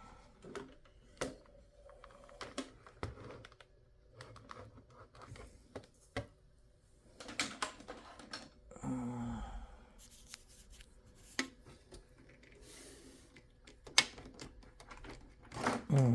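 Scattered, irregular clicks and taps from hands working at a desktop computer, with a low sigh about nine seconds in.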